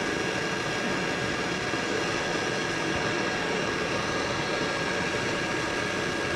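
Handheld gas torch burning with a steady hiss, heating an aluminium cylinder head to loosen a broken head stud.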